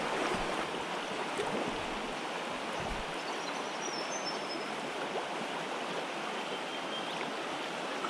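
A river running, a steady, even rush of flowing water.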